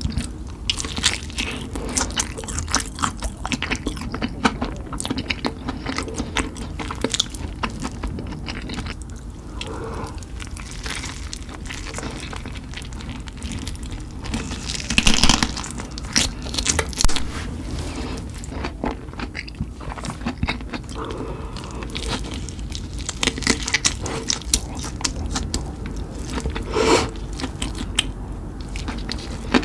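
Close-up eating sounds of spicy chicken: crunchy bites and wet chewing, with a few louder crunches about halfway through and again near the end.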